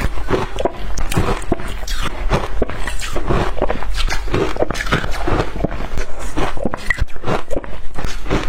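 A person biting and chewing shaved ice up close: a rapid, unbroken run of crunches.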